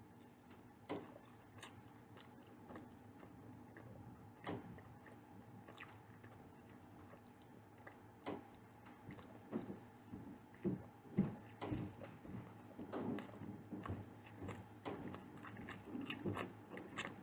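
A person biting into and chewing soft bakery buns and pastry close to the microphone: a few separate bites and mouth sounds at first, then steady chewing from about halfway.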